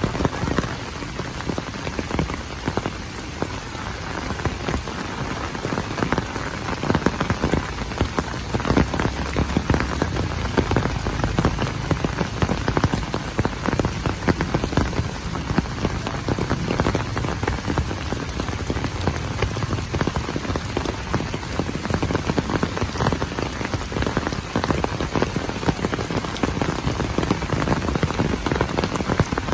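Steady heavy rain falling on hard surfaces, with a constant hiss and many close individual drops splashing.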